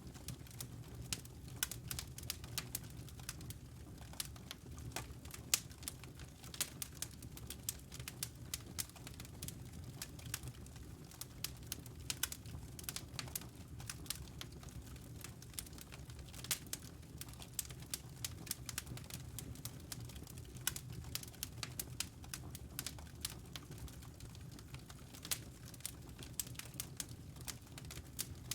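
Wood fire burning in a fireplace: irregular sharp crackles and pops from the burning logs, several a second, over a steady low rumble.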